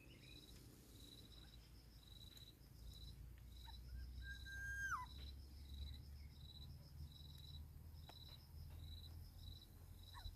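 Faint insect chirping, high short chirps about twice a second, steady throughout, typical of a cricket. About five seconds in comes one short whistled note that drops in pitch.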